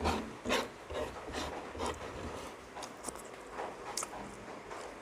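Close-up mouth sounds of eating milkfish: chewing and lip-smacking in short, irregular bursts, with a sharper click about four seconds in.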